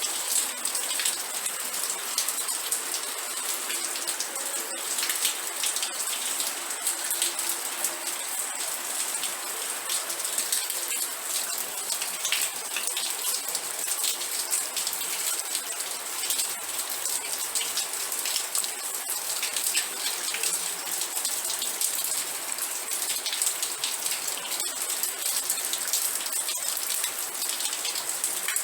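Steady rain, dense patter of individual drops hitting a surface.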